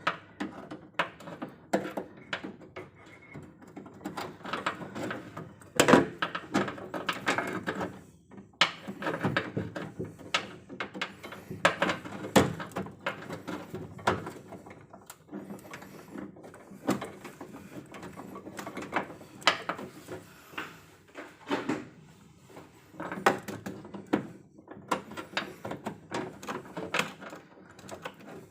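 Irregular clicks, taps and knocks of hand tools and metal parts being handled during electrical panel repair work, with a few louder knocks about six and twelve seconds in.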